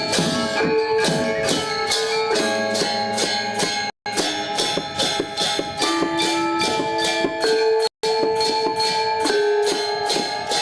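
Balinese gamelan gong ensemble playing classical lelambatan music: bronze metallophones and gongs in fast, even strokes over ringing held tones. The sound cuts out for an instant twice, about four and eight seconds in.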